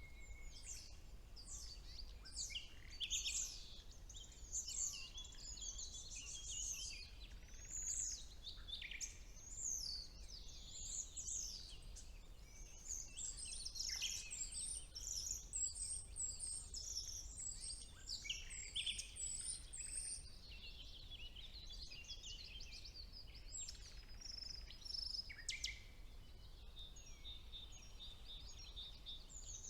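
Several songbirds singing at once in a spring woodland: a busy, overlapping mix of chirps, trills and short whistles, fullest in the middle, over a faint steady low hum.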